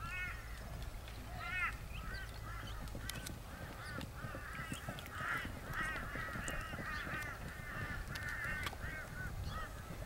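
Birds calling over and over: short calls that rise and fall in pitch, several a second, building to an overlapping chorus in the second half.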